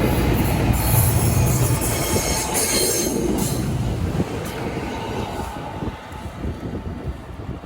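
Passenger train passing: wheels running on the rails, with high-pitched wheel squeal in the first few seconds, then the rumble fading as the train moves away.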